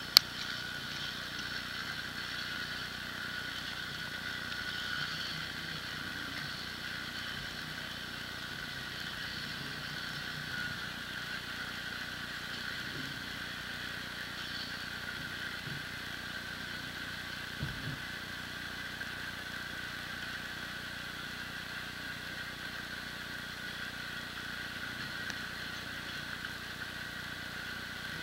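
Norfolk Southern steel freight train rolling past a grade crossing: a steady mechanical rolling and whirring noise with high held tones that runs on unchanged.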